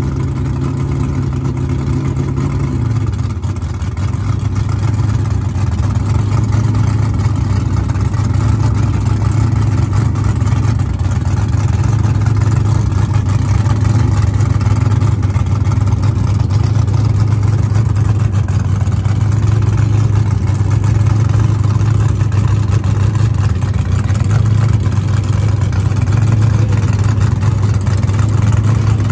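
Fox-body Mustang drag car's pushrod V8 idling steadily, its note settling slightly lower about three seconds in and then holding.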